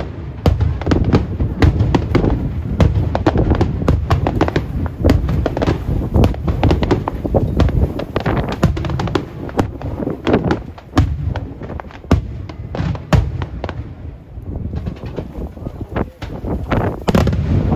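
Aerial firework shells bursting in a dense barrage, many sharp bangs a second over a continuous low rumble, thinning out a little in the last few seconds.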